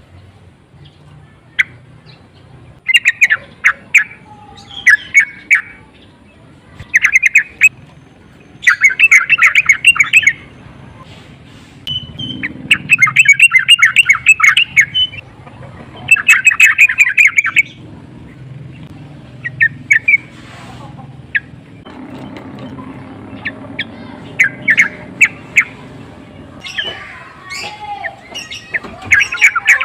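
Yellow-vented bulbul (trucukan) calling in repeated bursts of rapid chattering notes, each burst a second or two long with short gaps between. It is the excited, provoking call that keepers play to fire up another bulbul.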